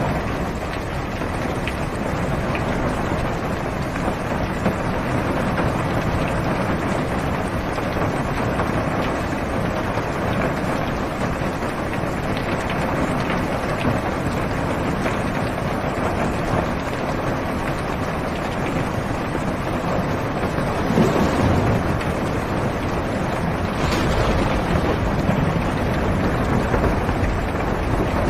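Heavy rain falling on a car's roof and windows, heard from inside the cabin as a steady, dense hiss with a low rumble. A brief louder swell comes about three-quarters of the way through.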